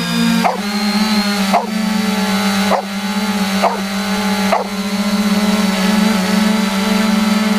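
3DR Iris+ quadcopter's electric motors and propellers whirring in flight: a steady hum of several pitches that shift as the motors speed up and slow down. Through the first half there are short swells about once a second, then the hum holds steady.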